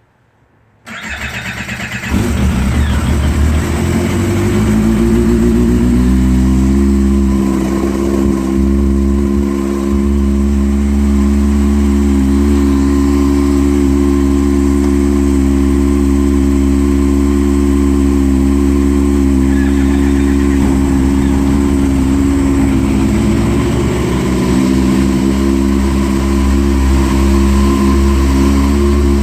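Yamaha Apex SE snowmobile's four-stroke four-cylinder engine starting for the first time of the season: a second of cranking on the starter, then it catches and its pitch climbs for a few seconds before settling into a steady idle.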